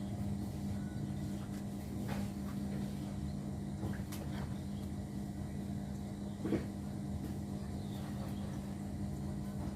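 Steady low hum with a few short, sharp sounds from birds in a small aviary; the loudest comes about two-thirds of the way through.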